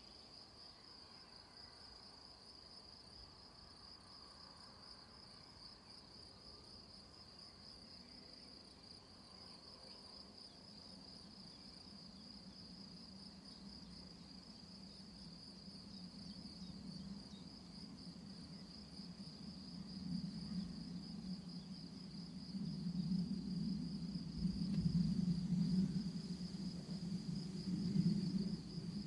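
Crickets trilling steadily in a high, fast-pulsing chorus. About halfway through, a low hum rises beneath it and grows louder toward the end.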